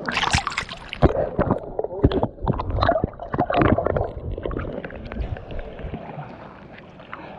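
Water splashing and gurgling close to the microphone in irregular bursts, settling after about four seconds into quieter lapping: a swimmer moving through the water.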